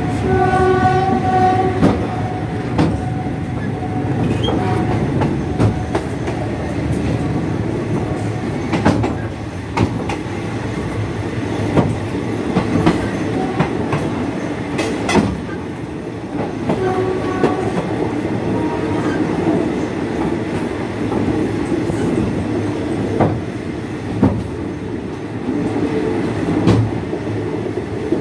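Passenger train No. 277 running along the track, heard from a carriage window: a steady rumble of wheels and carriages with scattered clacks over rail joints. A horn sounds briefly at the start and again about 17 seconds in.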